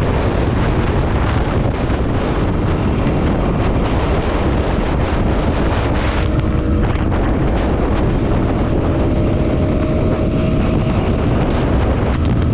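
Loud, steady roar of a waterfall's rushing water, with a heavy low rumble and wind buffeting the microphone.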